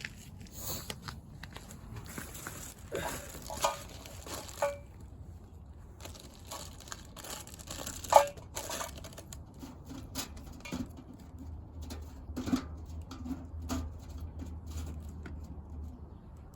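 Dry material being torn and crumpled by hand, with many scattered clicks and snaps, the loudest a sharp snap about eight seconds in: tinder and kindling being readied for a fire.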